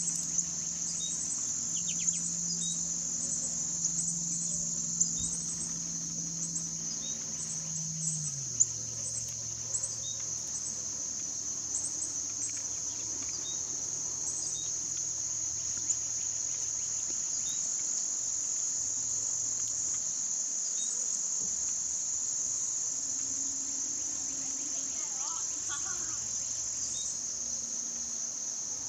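Steady, high-pitched outdoor insect chorus that runs without a break. A low hum underneath fades out about eight seconds in.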